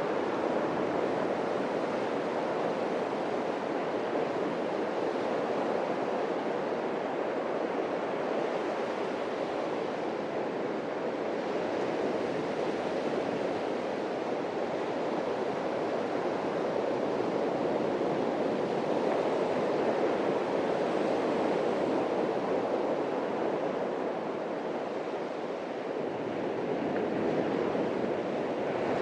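Atlantic Ocean waves washing onto a beach: a steady rush of surf that swells and eases back slowly, with no single sharp crash.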